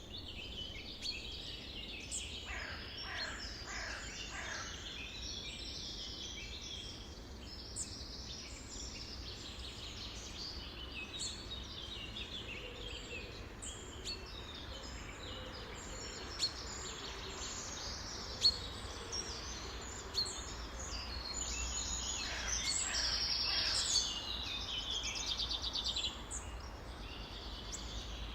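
A chorus of many songbirds chirping and calling over one another without pause, with a few longer calls that sweep downward in pitch, over a steady low background rumble.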